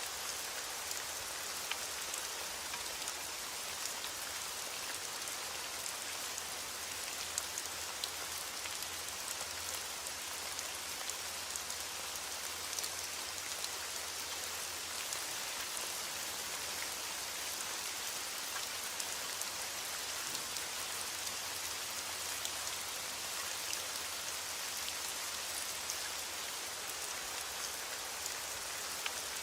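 Steady rain falling, a continuous hiss with scattered sharper ticks of individual drops.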